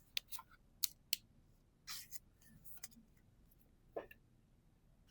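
Pokémon trading cards being handled and laid out on a table: a handful of light, scattered clicks and taps.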